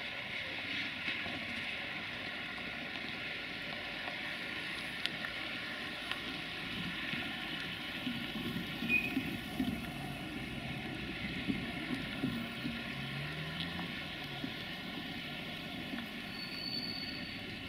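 Wheels of loaded coal freight wagons rolling over the rails and points: a steady low rumble with occasional small clicks and knocks.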